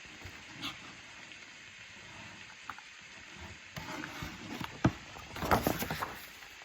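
A picture book's paper page being handled and turned: a crinkly rustle with a few sharp clicks about four to six seconds in.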